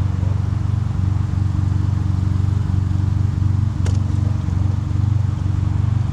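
A car engine running steadily at idle: a low, even drone with a fast regular pulse. A single sharp click comes about four seconds in.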